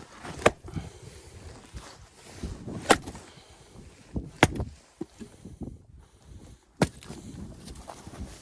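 Axe striking firewood four times, each blow a sharp crack, about two seconds apart, with quieter handling and shuffling noise between blows.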